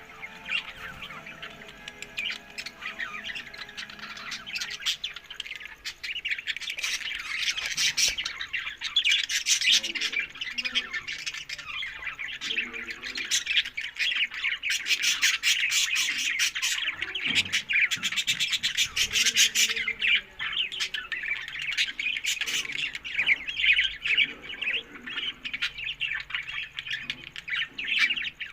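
Budgerigars chattering and squawking without pause, a dense mix of quick warbles and chirps that grows busier and louder about eight seconds in.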